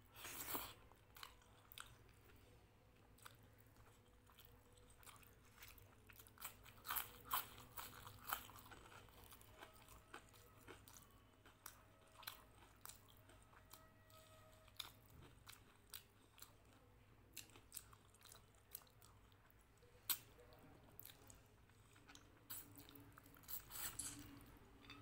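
Faint close-up chewing and biting of a hand-eaten Bengali lunch of rice with dal, potato fry and fried brinjal pakora: scattered crunches and wet mouth clicks, with a louder run of crunches about seven seconds in.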